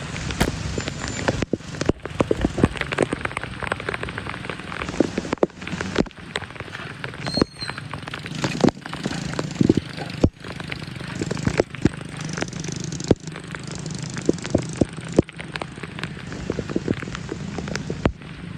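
Floodwater splashing and running at a clogged street drain, full of sharp crackles and splashes, broken every few seconds by abrupt cuts.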